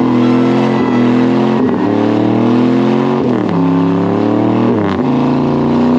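Pickup truck engine held at high revs during a burnout, its pitch slowly climbing, then dropping sharply and climbing back twice in the second half.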